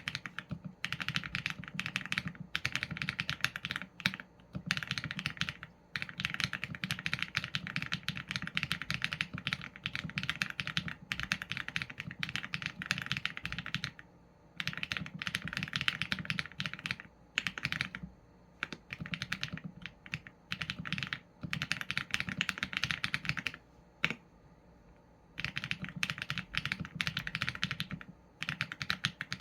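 Continuous typing on a Qsenn A75 mechanical keyboard with Leobog Graywood v4 linear switches and PBT keycaps: fast runs of keystrokes in bursts of a few seconds, broken by short pauses.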